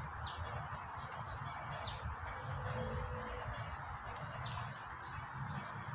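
Birds giving a few short, high chirps over a steady background hiss and a low rumble.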